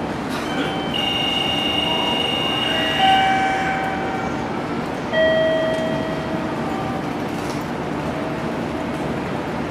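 JR Kyushu 885 series electric express standing at a station platform, its steady hum mixed with the station's noise. A few held electronic tones sound at about 1 s and again about 3 s and 5 s in, each entry a sudden step up in loudness.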